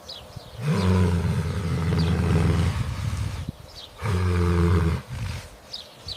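Two long, low calls from a large animal: the first lasts about two seconds, the second about a second. Faint high chirps sound in between.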